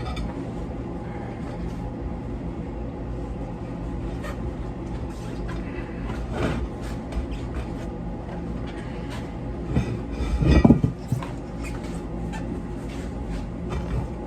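Stiff, cold lawn tractor tire being worked onto its rim by hand: rubber scraping with scattered clicks and knocks, and a louder scraping clunk about ten seconds in, over a steady mechanical hum.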